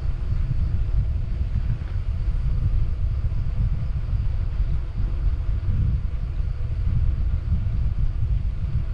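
Wind buffeting a helmet-mounted camera's microphone on a bicycle descent: a loud, gusting low rumble with a fainter rush of air above it.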